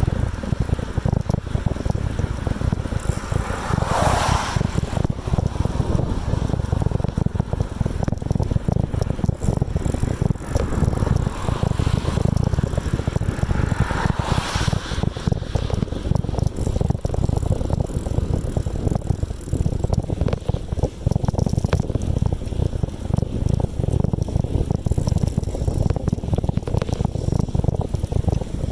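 Steady low wind rumble on the microphone of a moving bicycle, with two brief louder rushes, about four seconds in and again about ten seconds later.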